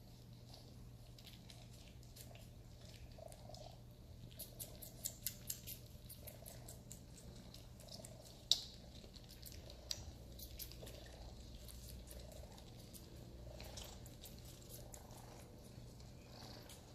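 Sphynx kittens purring softly, with scattered small clicks and scratches and one sharper click about halfway through.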